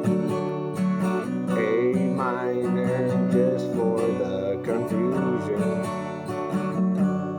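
Acoustic guitar strummed in steady chords. From about a second and a half to five seconds in, a wordless vocal melody with vibrato runs over it.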